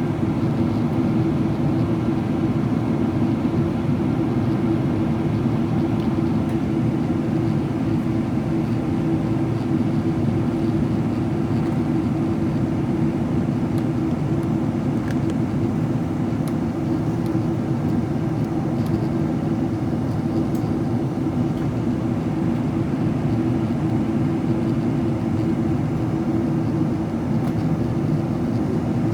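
Steady in-cabin drone of a Boeing 777-300ER descending, made up of its GE90 turbofan engines and the airflow over the fuselage. It holds an even low hum with no changes.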